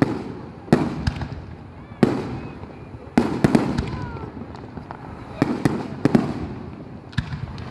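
Aerial firework shells bursting overhead: a series of sharp bangs, one every second or two and sometimes two or three in quick succession, each trailing off in an echoing rumble.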